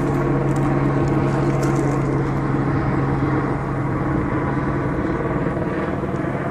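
Steady engine drone: a strong low hum with many even overtones, running at a constant pitch and easing off a little near the end.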